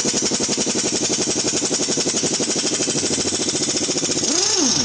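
Pneumatic air tool hammering rapidly and evenly, with a brief rising-and-falling whine near the end.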